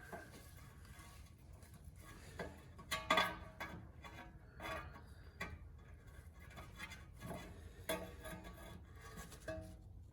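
Hand tools and metal suspension parts clinking and scraping in irregular short knocks with a little ringing, loudest about three seconds in.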